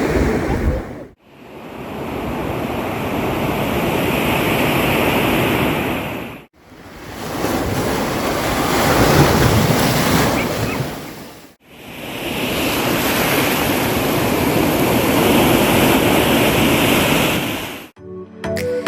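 Ocean surf: waves breaking and washing ashore, heard in several stretches that swell and fade and are cut apart by brief drop-outs. Music starts just before the end.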